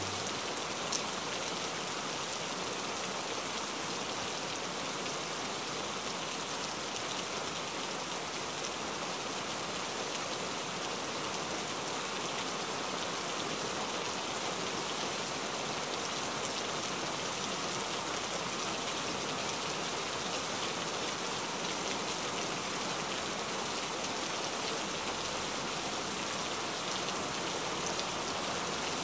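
Heavy rain falling steadily against window glass, a dense even hiss of drops with no breaks.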